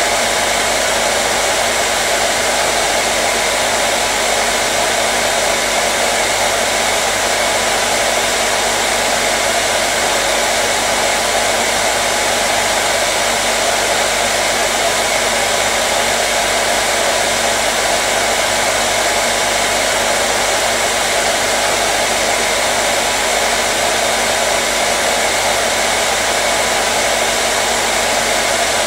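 Hair dryer running steadily without a break: an even blowing rush with a faint steady motor hum under it.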